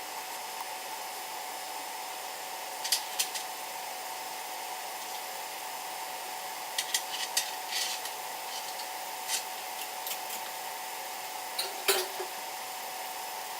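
Steady hum of a kitchen with a few short light clinks of cookware, in small groups about 3, 7 and 12 seconds in.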